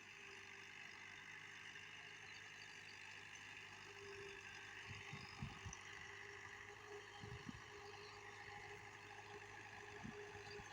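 An engine idling faintly with a steady low hum.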